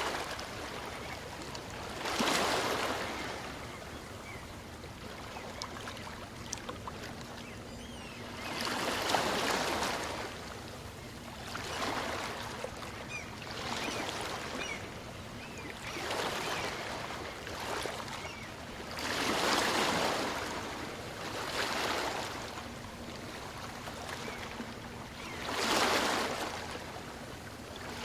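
Small waves of a calm sea washing up a beach and drawing back, a surge every few seconds.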